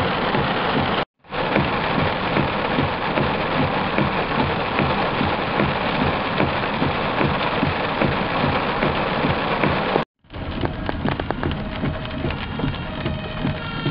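Heavy downpour, rain pelting hard on surfaces as a dense steady hiss, broken by two brief cuts. After the second cut the rain is lighter and individual drops and splashes can be picked out, and a siren starts faintly near the end.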